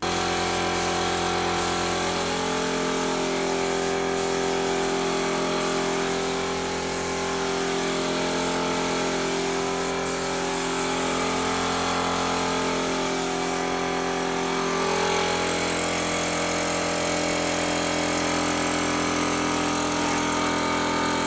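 Battery-powered 5-litre Metabo cordless air compressor starting suddenly and running steadily, its motor a constant hum. Over it for about the first fourteen seconds comes a high hiss of air from the spray gun, broken by brief pauses as the trigger is let go.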